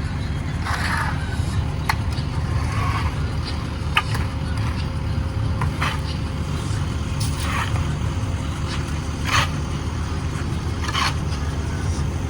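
Heavy diesel paving machinery running steadily with a low rumble, overlaid by short scraping sounds every second or two and a few sharp clicks.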